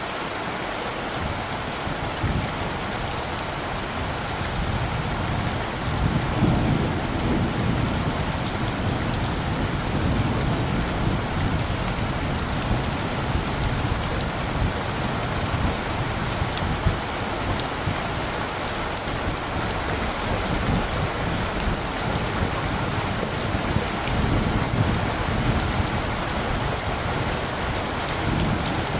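Steady rain falling, with low rumbles of light thunder swelling about six seconds in and again a few seconds before the end.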